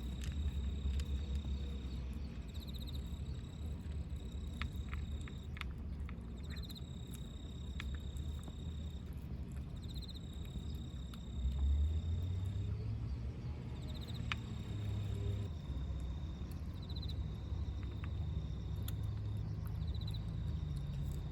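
Insects trilling steadily in a high pitch, the trill swelling every second or two, over a low rumble of distant traffic, with a few faint clicks.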